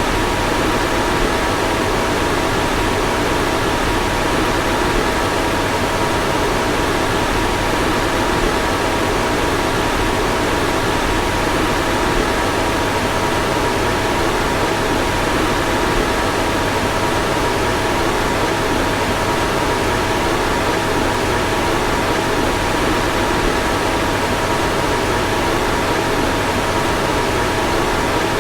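A car's fan running steadily: an even rush of air over a low hum, with a faint steady whine.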